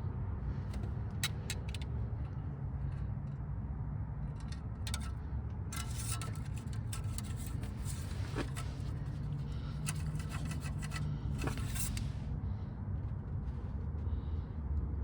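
Light metallic clicks and scrapes of an engine oil dipstick being drawn from its tube and handled, thickest in the middle seconds, over a steady low rumble.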